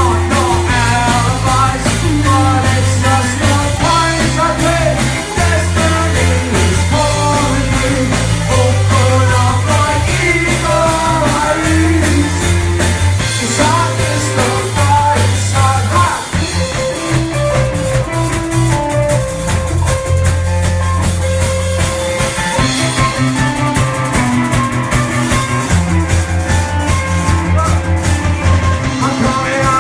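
Live rock band playing a song, with electric guitars, bass, drum kit and a singer.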